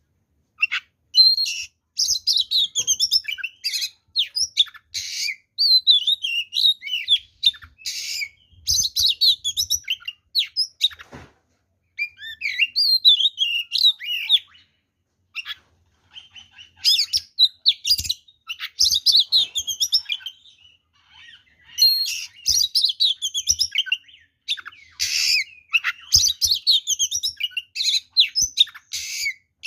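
Oriental magpie-robin (kacer) singing a fast, varied agitated song of whistles, trills and harsh notes laced with mimicked phrases, broken by short pauses about halfway and about two-thirds through. It is the aggressive 'fighting' song that provokes rival magpie-robins.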